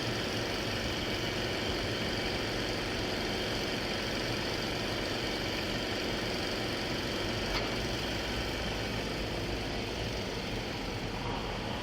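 Car engine idling steadily, a constant drone, with a faint click about seven and a half seconds in.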